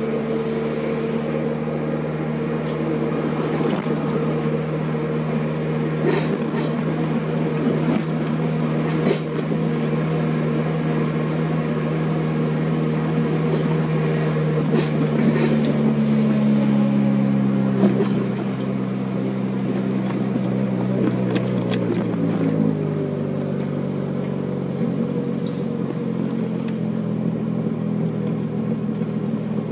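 Car engine and road noise heard from inside the moving car. The engine runs steadily, then drops in pitch about two-thirds of the way through as the car slows.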